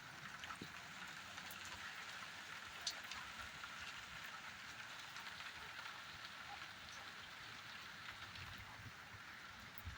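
Steady rain falling: an even hiss with scattered sharper drop ticks, one louder tick about three seconds in.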